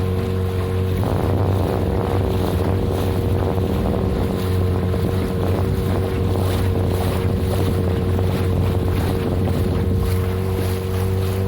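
Motorboat engine running steadily under way, with wind and rushing water.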